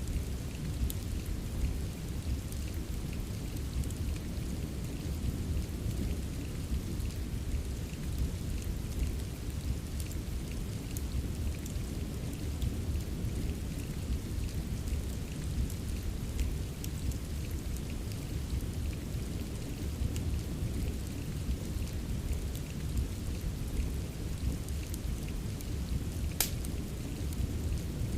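Steady rain ambience mixed with a crackling wood fire: a dense low rumble of rain, with scattered sharp pops and crackles on top. One louder pop comes near the end.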